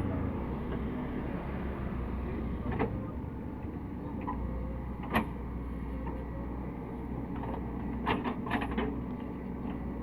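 CAT 307E2 excavator's engine running steadily, with a single sharp knock about halfway through and a quick cluster of knocks near the end.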